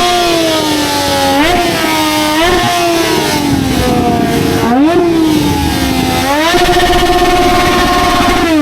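Motorcycle engine being revved in repeated blips, its pitch climbing and sinking several times, with the biggest blip about five seconds in. The revs then hold steady for about two seconds near the end.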